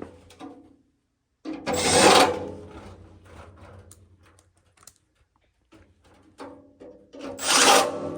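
Two loud scrapes about five seconds apart, each with a faint ringing: parts of the blower assembly dragging against each other. Small knocks and clatter come between them.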